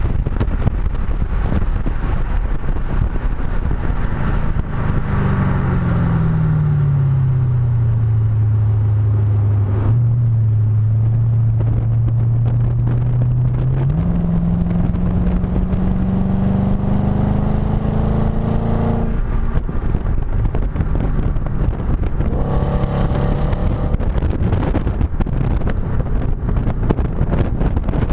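Audi B7 S4's 4.2-litre V8 through a STaSIS exhaust, heard close at the tailpipe while lapping: the note falls as the car slows, holds low, then climbs under acceleration and drops at a shift. Wind buffets the microphone throughout.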